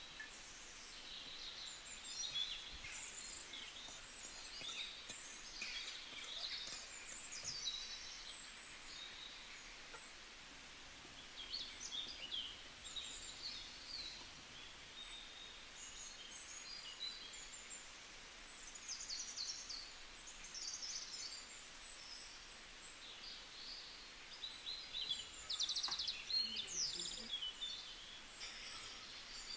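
Small birds chirping and trilling on and off over a steady background hiss.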